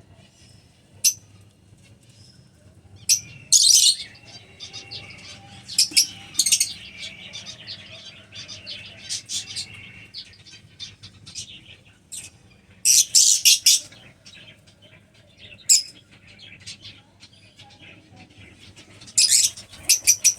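Albino black-eye lovebirds chirping: sharp, shrill calls in scattered loud bursts, with the loudest clusters a few seconds in, midway and near the end.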